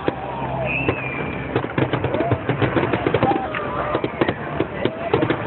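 Aerial fireworks going off: a rapid run of sharp crackling pops that grows dense about two seconds in and keeps going.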